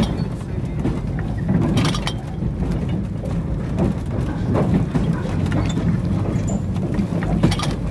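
Train running slowly along the track, heard from on board: a steady low rumble with a few sharp clanks, about three in all, as the wheels cross rail joints and points.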